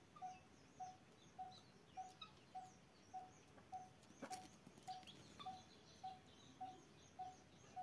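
Faint outdoor birdsong: one bird repeats a short low note at a steady pace of nearly two a second, with fainter high chirps from other birds, and a single sharp click about four seconds in.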